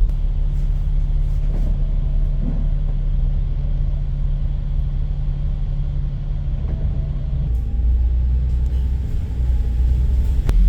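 Steady low rumble of a motor vehicle running, with an engine hum that drops away about seven and a half seconds in, leaving a deeper rumble.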